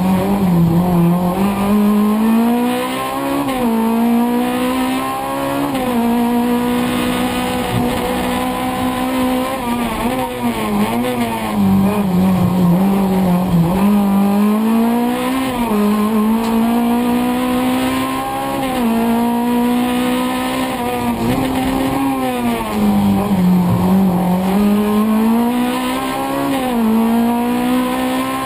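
Race car engine heard from inside the cabin, driven hard: it revs up and drops back over and over, the pitch rising and falling every couple of seconds.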